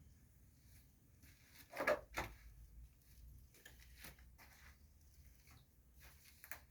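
Faint scattered scuffs and rustles of movement in a cramped space under a house, with two louder scrapes about two seconds in.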